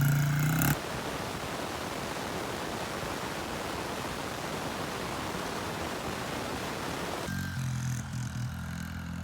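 Small mini bike engine running for a moment, then about six and a half seconds of steady, even hiss, after which the engine's low running sound returns near the end.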